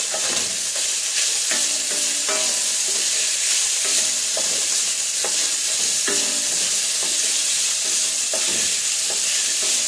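Diced onions and pieces of beef sizzling in hot oil in a stainless steel pot while being stirred, with short scrapes against the pot about once a second. The onions are at the start of being sautéed.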